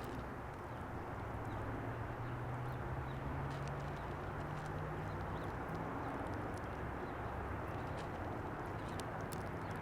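Outdoor ambience: a steady low hum and hiss, with faint, short high chirps of small birds scattered through, several close together near the end.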